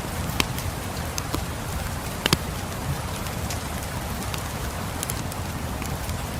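Steady rain with a crackling wood fire: a continuous hiss and low rumble, broken by scattered sharp pops and crackles, the loudest a double pop about two seconds in.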